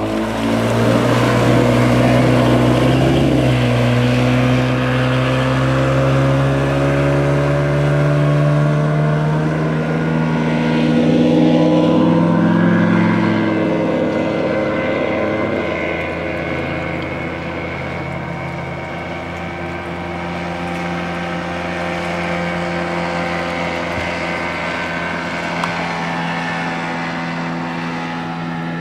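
Fletcher motorboat's engine opened up at the start, its pitch climbing slowly over about the first ten seconds as the boat gathers speed, then running steadily at speed with water rushing past the hull.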